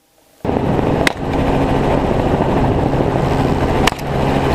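Helicopter running steadily, heard from inside the cabin, with two sharp cracks about a second in and near the end: rifle shots fired from the helicopter. The sound cuts in suddenly after a moment of silence.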